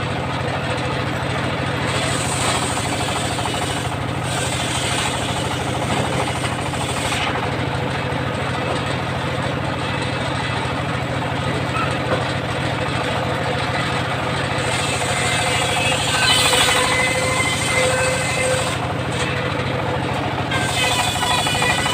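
Engine-driven homemade circular sawmill running steadily, with the blade's higher cutting noise swelling several times as it works through timber.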